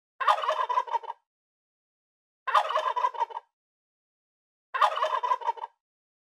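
Turkey gobbling three times, each rapid, warbling gobble about a second long, with clean silence between.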